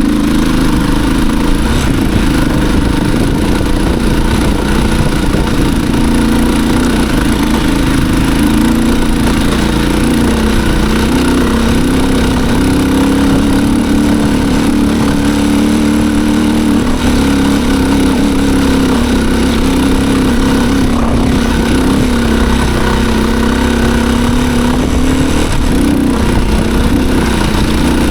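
Off-road motorcycle engine pulling hard up a steep hill climb, its note rising and falling as the throttle is worked.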